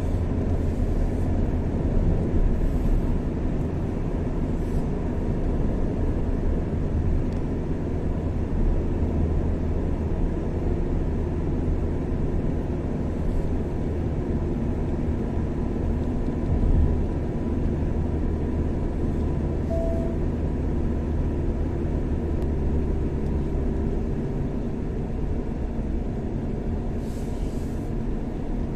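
Car driving steadily on an open road: a constant low rumble of engine and tyre noise.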